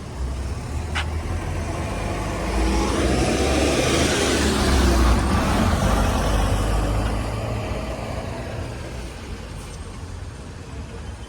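A motor vehicle driving past close by: its engine and tyre noise grows steadily to a peak about halfway through, then fades away.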